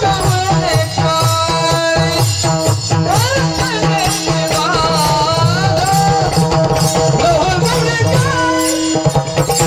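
A male voice singing a Warkari kirtan chal in long, ornamented gliding phrases, over steady held instrumental tones, a repeating drum rhythm and jingling percussion.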